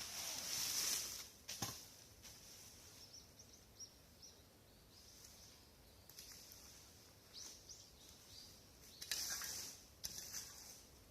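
Rustling bursts of dry brush and leaves, with a couple of sharp snaps like twigs breaking, and faint short bird chirps in the quieter stretch between.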